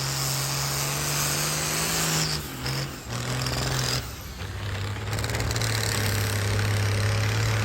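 Diesel pulling-tractor engine running hard under load as it drags a weight-transfer sledge. The revs hold high, dip briefly about two and a half seconds in, then drop to a lower steady pitch about four seconds in.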